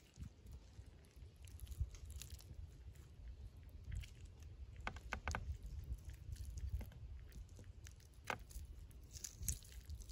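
Someone eating the ember-cooked lamb, with scattered short chewing and crunching clicks, a few close together around the middle.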